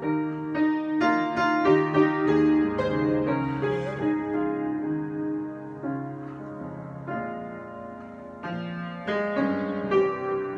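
Solo piano improvisation: chords and melody notes struck and left to ring, with a softer passage midway before the playing builds again.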